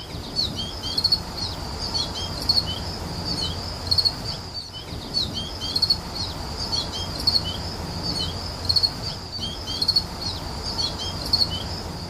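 A bird singing, repeating a short phrase of high, quick chirps about every second and a half, over a low steady rumble.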